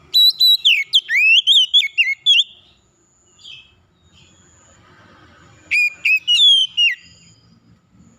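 A songbird singing two loud phrases of quick whistled notes that slide up and down. The first phrase lasts about two and a half seconds; a shorter second one comes after a pause of about three seconds.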